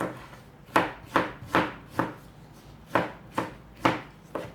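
Kitchen knife cutting a tomato on a cutting board: about eight sharp knocks of the blade meeting the board, coming in loose pairs at an uneven pace.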